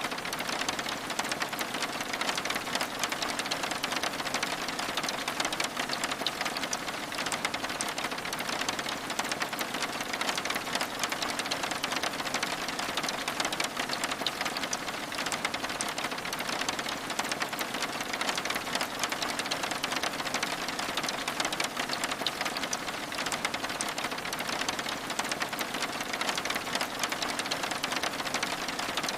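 Steady rain pattering on window glass: an even, unbroken hiss of many small drop ticks.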